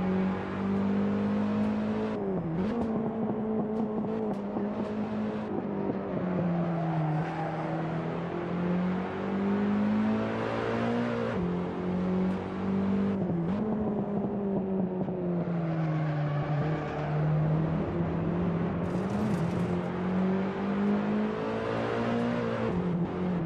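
Car engine running continuously under load, its pitch dipping briefly and recovering several times, as at gear changes or lifts of the throttle.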